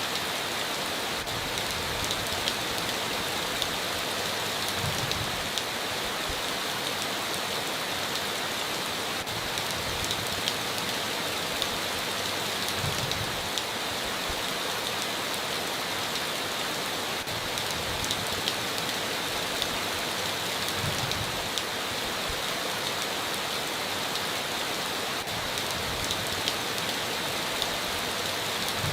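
Steady heavy rain, an even downpour hiss with many sharp drop ticks scattered through it.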